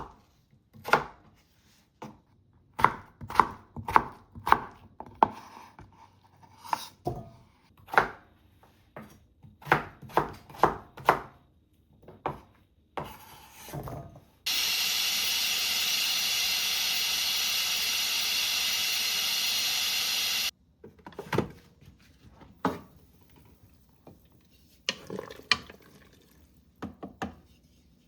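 Kitchen knife chopping on a cutting board in irregular sharp knocks. A loud, steady rushing noise starts abruptly about fourteen seconds in, runs for about six seconds and cuts off. More scattered knocks follow.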